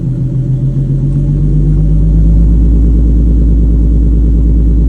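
Nissan 370Z's V6 engine running, growing louder about two seconds in and then holding steady.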